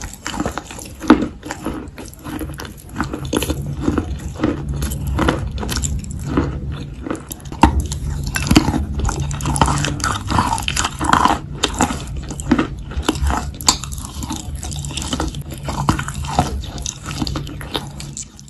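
Close-miked mouth chewing and biting chalk coated in wet clay paste: a dense, uneven run of crunches and sticky mouth clicks over a low steady hum.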